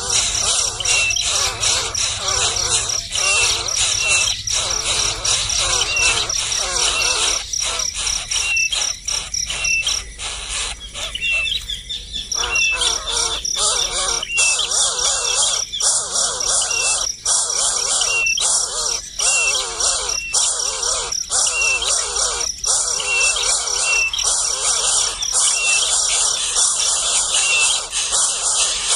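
A small bird chirping over and over, short chirps about one a second, over a dense, pulsing drone of insects.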